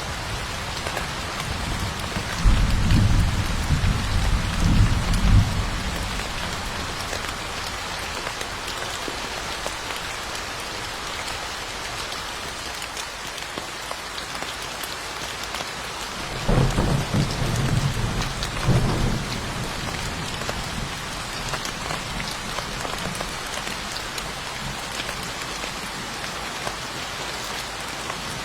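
Steady rainfall hissing throughout, with two low rolls of thunder, one a few seconds in and another just past halfway, each lasting a few seconds.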